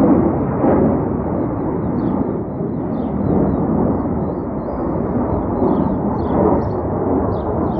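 Jet engine noise of a formation of F-35 and F-16 fighter jets flying overhead: a loud, steady, deep rumble that swells and eases slowly.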